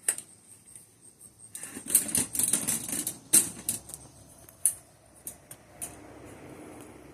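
A ladder clicking and knocking as it is set up and climbed, a rapid clatter of small knocks in the middle that thins out to a few ticks.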